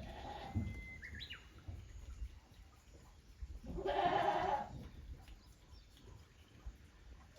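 A goat bleats once, about four seconds in, over a low rumble of wind on the microphone. A bird chirps briefly about a second in.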